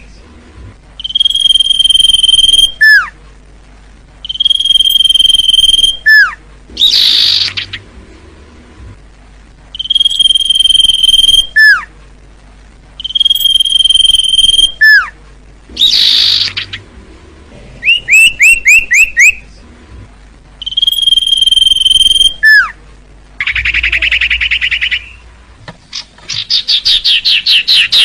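Common iora (cipoh) singing a repeated phrase: a long, steady, high whistled note, then a quick falling note. Bursts of rapid buzzy trilling and fast runs of short rising chirps fall between the phrases.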